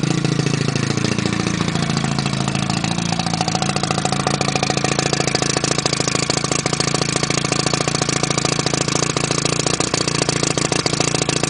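Johnson Super Sea Horse 40 hp two-stroke outboard running out of the water on flushing muffs. Its revs fall over the first few seconds after starting, then it settles into a steady idle.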